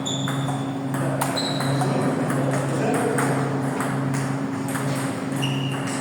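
Table tennis ball being hit back and forth, sharp clicks off paddles and table with short high pings, at an irregular rally pace. A steady low hum runs underneath.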